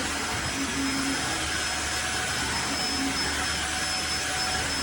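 Tineco iFLOOR 3 cordless wet-dry floor cleaner running in normal mode: a steady motor whir with a faint high whine.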